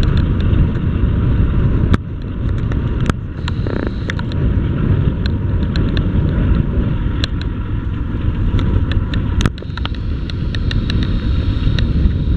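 Wind buffeting the microphone on the deck of a moving RoRo ferry: a loud, uneven low rumble with scattered short clicks.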